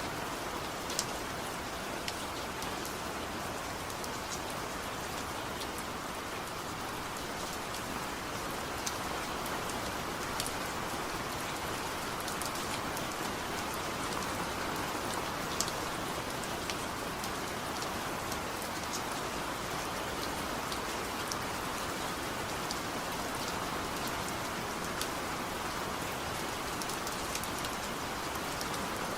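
Steady rain falling on a surface, a constant hiss with many small sharp drop ticks scattered through it.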